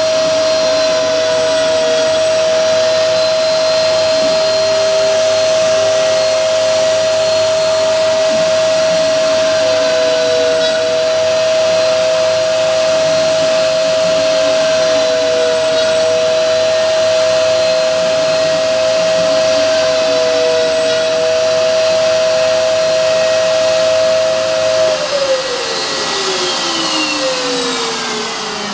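CNC milling machine's motors running with a steady high whine over a rushing noise; about 25 seconds in one motor is switched off and winds down, falling in pitch, and near the end a second one follows, spinning down.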